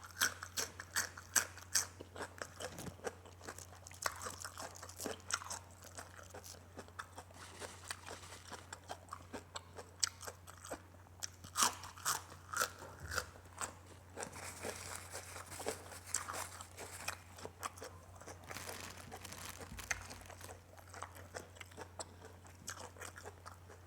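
A person chewing and biting food close to the microphone, with many irregular crisp crunches, over a faint steady low hum.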